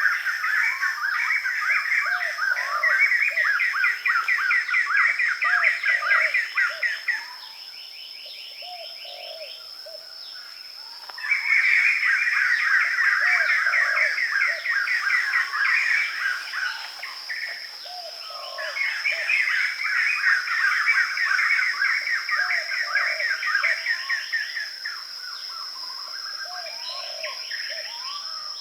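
Birds chirping in long, rapid bouts of trills that last several seconds each, with short breaks between them, over a steady thin high-pitched whine.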